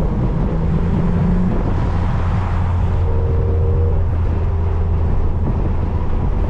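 Car engine running steadily at low speed, a constant low hum with road and air noise, heard from inside a car with its windows down.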